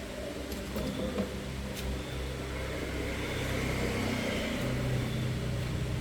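A vehicle engine running steadily with a low hum that grows slowly louder, with a few light clicks.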